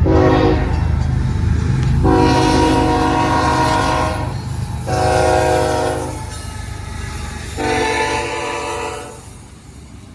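Lead GE ES44AC diesel locomotive's air horn sounding four blasts: a brief one, a long one of nearly three seconds, a short one, then another long one ending a second before the end. Under it the low rumble of the passing diesel locomotives, fading away in the last few seconds.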